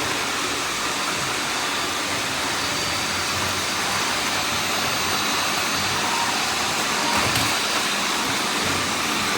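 Many vacuum cleaners running at once, making a steady, even whirring din.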